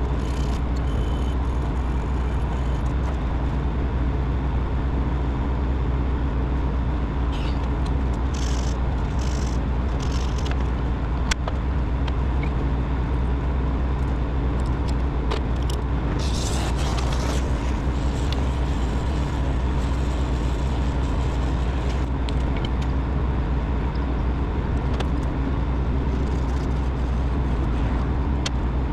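A machine running steadily with a constant low hum, with a few brief hisses about a third and halfway through.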